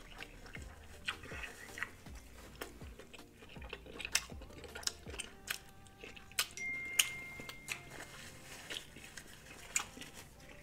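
Close-miked chewing of buttered lobster tail: wet mouth clicks and smacks, several a second. A short steady high tone sounds a little past halfway.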